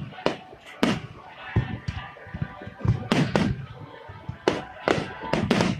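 Fireworks finale barrage: aerial shells bursting in a string of sharp bangs at uneven intervals, a few in the first second, a cluster about three seconds in, and a quicker run near the end.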